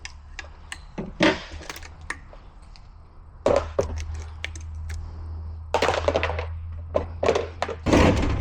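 Knocks and clatter of tools and metal parts being handled on a workbench, a dozen or so sharp hits, the loudest near the end, over a low steady hum that starts about a third of the way in.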